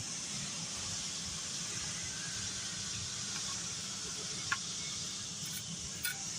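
A steady high hiss, with a sharp tick about four and a half seconds in.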